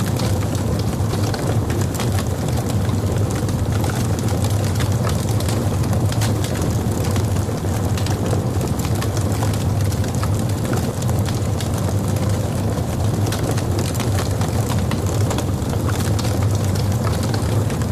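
Log fire burning in a fireplace: a steady low rumble with frequent small crackles and pops scattered throughout.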